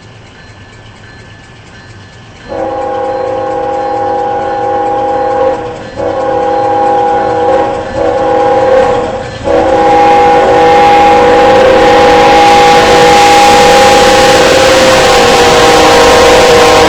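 Train horn sounding a chord of several notes, very loud: two blasts of about three seconds each, then a long held blast, as the train approaches and passes. A rushing rail noise grows under the horn from about ten seconds in.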